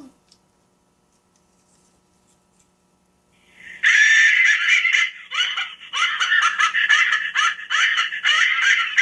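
Laugh sound chip for a Happy Hyena magic prop playing back a recorded laugh through its small speaker: after a near-silent pause, a loud, choppy run of laughing bursts, several a second, starts about four seconds in.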